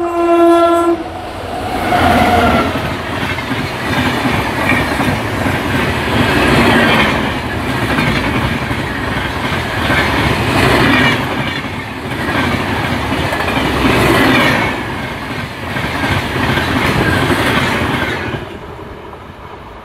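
Indian Railways WAP7 electric locomotive sounding its horn in one blast about a second long, then the express train passing at speed: loud rumble and clatter of the coaches' wheels on the rails, rising and falling as the coaches go by, fading near the end.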